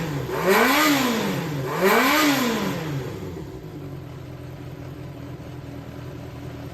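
Yamaha XJR400 (4HM) air-cooled inline-four engine being blipped: it is revved briefly twice, the pitch rising and falling back each time, then settles to a steady idle about three seconds in. It runs without abnormal noises, which the seller takes as the engine being in top condition.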